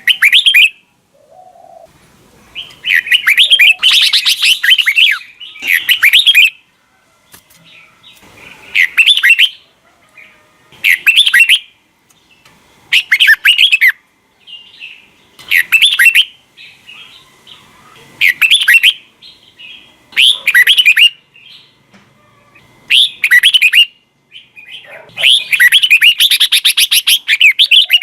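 Red-whiskered bulbul singing: short, rapid, warbling phrases repeated about every two seconds, with a couple of longer, denser bursts of song.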